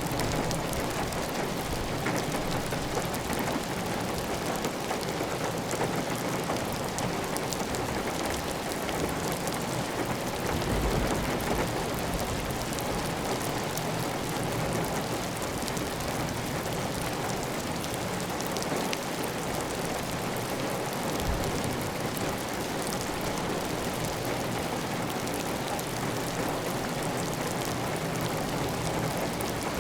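Heavy, steady rain on a clay tile roof, with water running off the roof edge.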